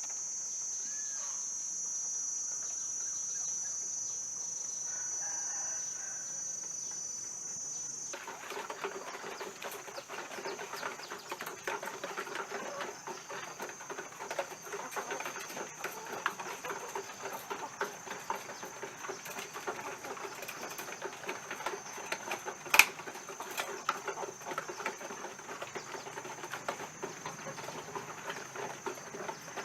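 Laying hens clucking, with dense small clicks and rustles from their pecking and moving about, over a steady high-pitched whine. The whine is loudest for the first few seconds, and the clicking sets in suddenly about 8 seconds in. A single sharp knock, the loudest sound, comes about 23 seconds in.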